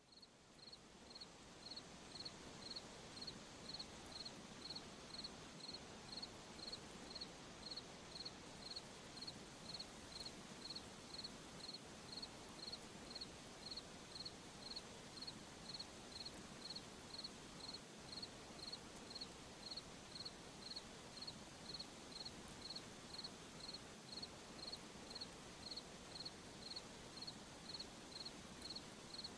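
A cricket chirping steadily at about two short, high chirps a second over a faint hiss, fading in over the first couple of seconds.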